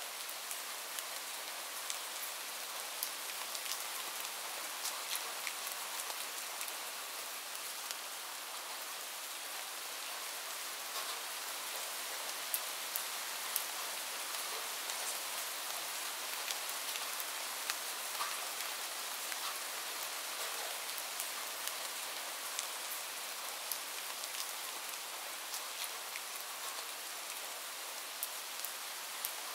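Rain ambience: steady rain falling, with frequent light ticks of individual drops scattered through it.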